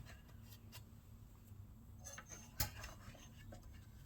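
Faint clicks and light taps of small engine parts being handled and fitted by hand, with one sharper click about two and a half seconds in.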